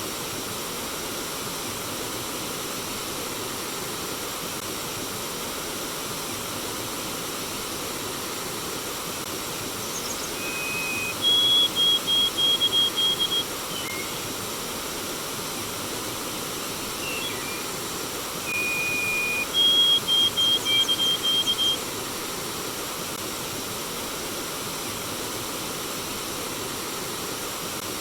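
Flowing stream water rushing steadily. A songbird sings twice, about eight seconds apart. Each phrase is one held whistle followed by a quick run of short, higher, evenly repeated notes.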